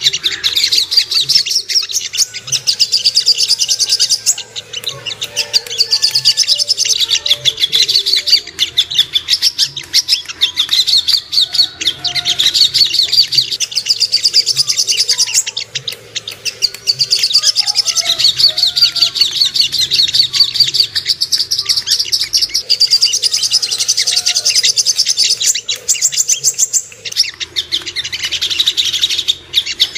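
Sogok ontong sunbird singing a fast, high, chattering trill in long phrases with short breaks. This is the kind of lure song played to make caged birds excited and sing.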